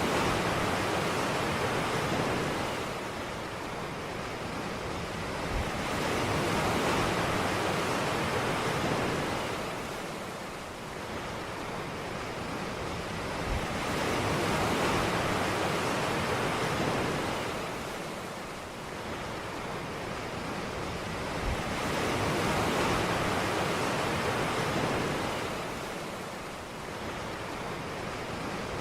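Ocean surf breaking on a beach, each wave swelling and fading in turn about every eight seconds, four times.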